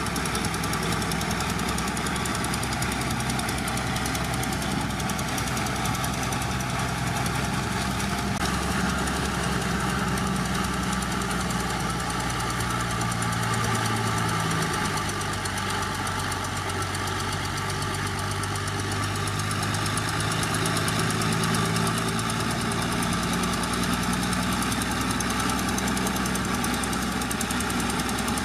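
Heavy diesel engine of earthmoving machinery running steadily under load, with its pitch shifting up and down through the middle as the engine speed changes.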